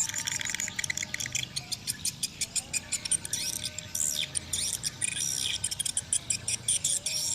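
Swiftlet calls: a dense, rapid twittering of chirps and clicks with quick falling notes, with a thin wavering tone underneath.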